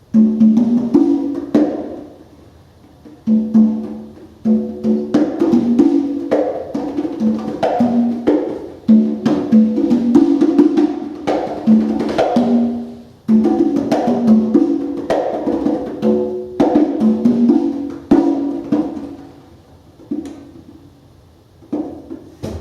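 Congas played by hand in fast, busy phrases of pitched slaps and open tones, broken by a few short pauses, thinning to scattered strokes near the end.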